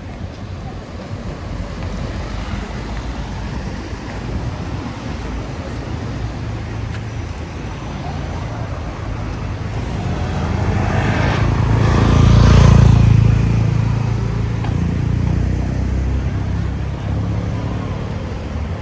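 Street traffic with a steady low rumble; a motor vehicle passes close by, rising to its loudest about twelve seconds in and then fading away.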